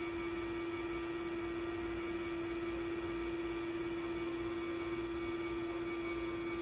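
A steady electrical hum: one strong low tone with fainter higher tones over a light hiss, unchanging throughout.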